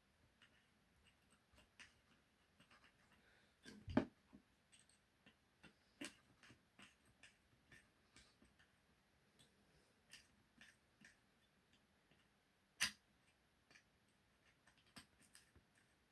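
Faint, scattered small clicks and taps of a driver and hands working the shock screws on an RC car, with a louder knock about four seconds in and a sharp click later on.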